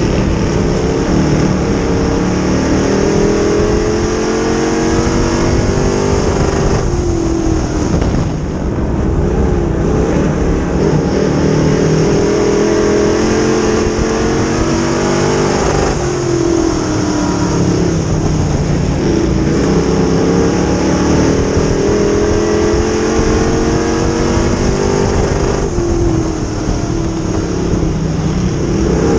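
Dirt modified race car engine at racing speed, its pitch rising for several seconds as it accelerates, then falling as it lifts off, in a cycle about every nine seconds, lap after lap around a short oval.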